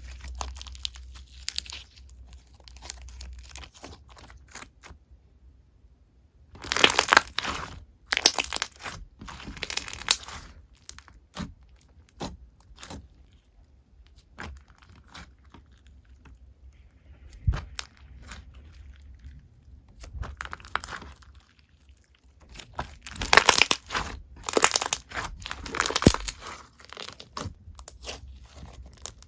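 Slime being squeezed and pulled apart by hand, giving bouts of dense crackling and popping about 7 seconds in and again from about 23 seconds, with scattered single pops between.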